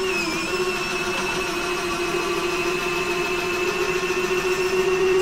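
Small electric retract motors of a model aircraft's landing gear running together with a steady whine, a little louder from the very start, as the gear travels.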